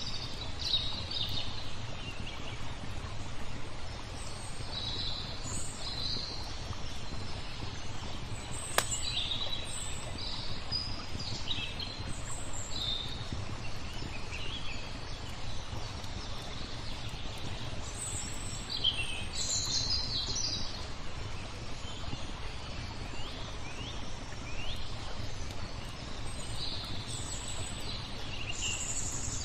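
Small birds chirping and trilling on and off over a steady low rush of flowing water, with one sharp crack of the fire about nine seconds in.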